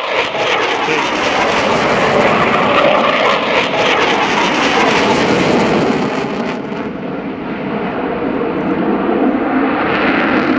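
F-4E Phantom II jet fighter's twin J79 turbojets in a loud, continuous roar. The sharper hiss at the top of the noise falls away about two-thirds of the way through, and the roar eases a little.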